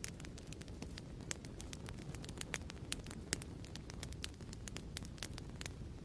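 Wood fire crackling in a fireplace: a steady low rumble of burning with frequent irregular sharp pops and crackles, the loudest about three seconds in.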